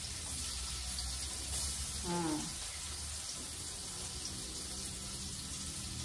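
Steady sizzling hiss of food frying in a pan on a gas stove, with a short voice sound about two seconds in.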